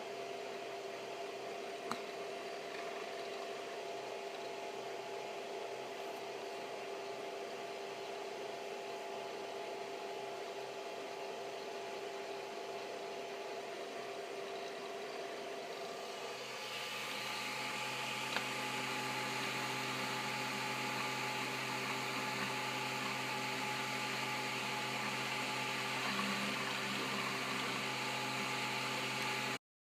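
Wanhao i3 3D printer running a print: a steady fan whir with several steady motor tones. About two-thirds of the way through the sound grows louder and hissier with extra tones, and it cuts off abruptly near the end.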